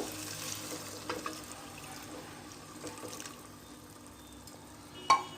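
Water poured into a pot of sautéed chicken and masala paste: a steady pouring hiss that fades over a few seconds. A sharp knock near the end.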